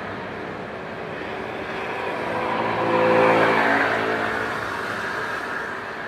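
Jet airliner passing close by, its engine roar swelling to a peak about three seconds in and then fading away.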